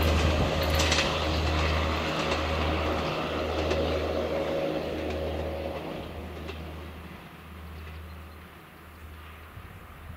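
Diesel passenger train moving away from the level crossing. Its low rumble pulses about once a second and fades steadily. Just at the start, the crossing's warning bell falls silent.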